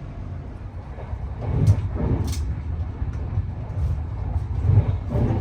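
Vehicle travelling: a steady low rumble with a few sharp clicks or knocks and swells in loudness.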